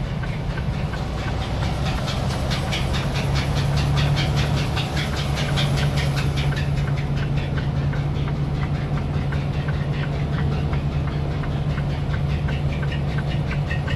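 Semi truck driving on snow with tire chains on: a fast, even clacking of chain links striking the road with each wheel turn, over the steady low drone of the diesel engine. The knocking comes from the chains, one of which the driver calls worn out and garbage.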